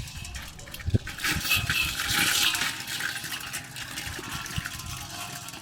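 Water rushing, loudest between about one and three seconds in, with a low thump about a second in.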